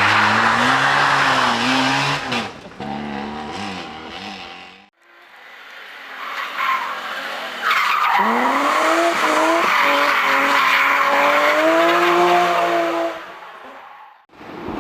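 Competition car engines at high revs with tyre noise, in two separate shots. The first car's revs climb and fall and cut off about five seconds in. A second car approaches, and its revs rise sharply about eight seconds in and hold high before cutting off near the end.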